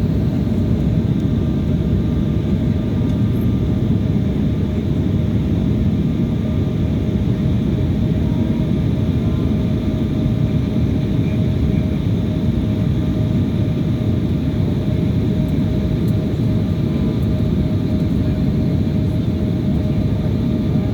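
Steady, unchanging roar of an aircraft cabin in flight: engine and airflow noise with a constant hum running through it.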